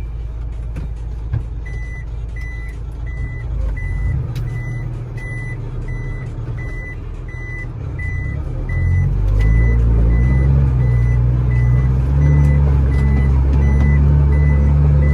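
Truck reversing alarm beeping at a steady quick rate, about two to three beeps a second, over the truck's running engine. About nine seconds in the engine gets louder and stays up as it pulls under load.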